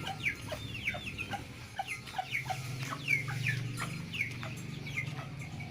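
Birds chirping: many short, falling calls, several a second, over a steady low hum.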